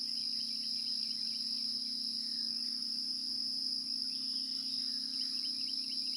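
Steady chorus of crickets, an unbroken high trill, with a faint low hum beneath it and a few faint chirps about halfway through and again near the end.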